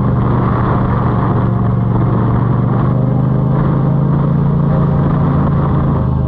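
Yamaha MT-07 (FZ-07) parallel-twin engine running steadily through an Akrapovic exhaust, holding an even pitch with no revving.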